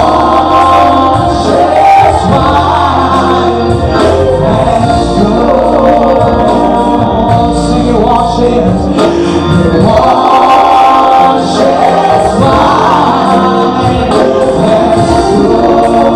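Gospel music with a choir singing, loud and continuous.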